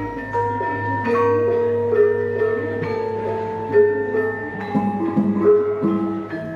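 Javanese gamelan ensemble playing: bronze metallophone keys struck in quick succession at many pitches, each note ringing on, over a deep tone that fades away about a second in.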